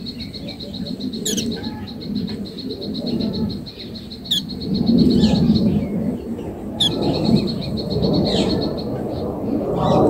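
Three short, sharp, falling bird chirps, spaced a few seconds apart. Under the first part runs a steady high pulsing trill that stops about four seconds in. Throughout there is a louder low rushing noise that swells in the second half.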